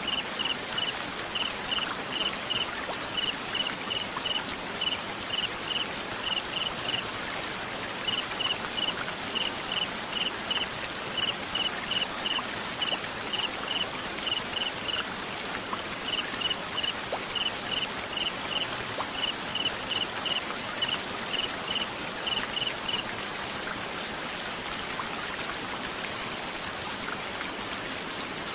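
Steady rain-like hiss with a cricket chirping over it in short, evenly spaced groups of pulses at one high pitch. The chirping comes in three runs with brief pauses and stops about four-fifths of the way through, leaving only the hiss.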